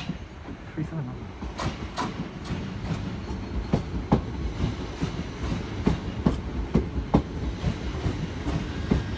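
Two coupled Class 379 Electrostar electric multiple units arriving and passing close by, with a steady low rumble. Their wheels clack over the rail joints in sharp clicks about every half second.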